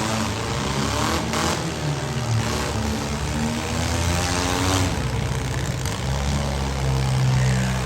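Several compact demolition-derby cars' engines running and revving, with a short crash-like burst of noise about a second in and another near five seconds.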